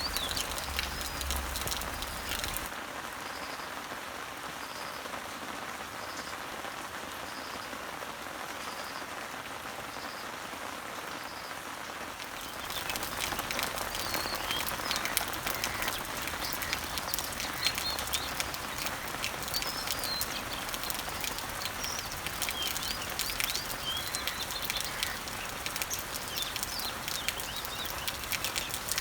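Summer rain falling steadily on garden leaves and trees, with birds chirping. In the first part one bird repeats a short high note every second or so; from about halfway the rain gets louder and several birds chirp at once.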